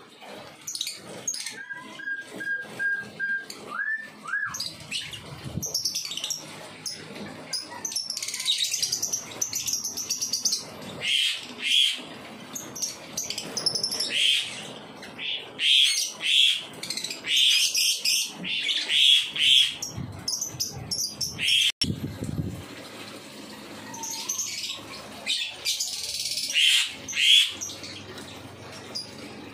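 Birds chirping: many short, high calls repeated over and over, thickest in the middle stretch.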